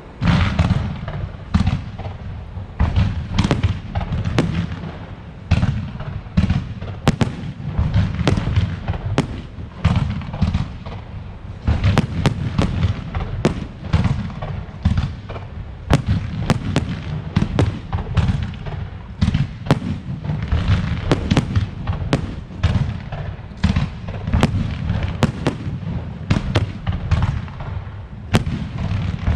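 Aerial fireworks display: a dense, continuous barrage of shell bursts, several sharp cracks a second over low booms. It starts suddenly, right at the beginning.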